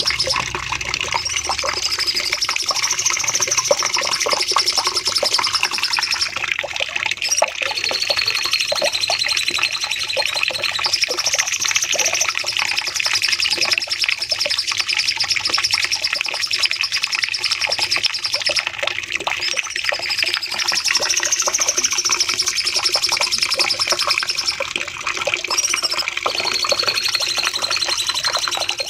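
Cucak cungkok songbird singing a long, unbroken run of rapid high-pitched chattering phrases. It is a looped masteran recording, and the same stretch of song comes round again about every 18 seconds.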